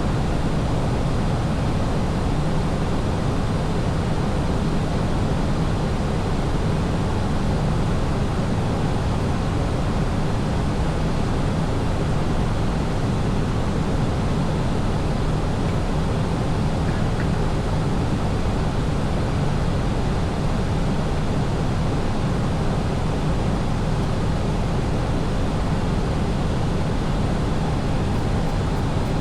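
Steady rushing noise inside an Airbus airliner in flight: engine and airflow noise, deepest in the low range and unchanging throughout.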